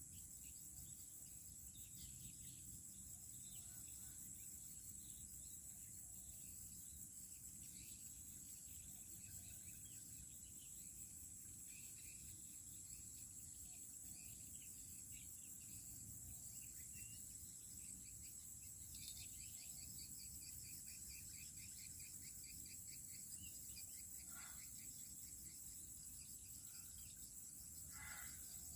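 Faint outdoor ambience: insects droning steadily at a high pitch, with scattered short bird chirps.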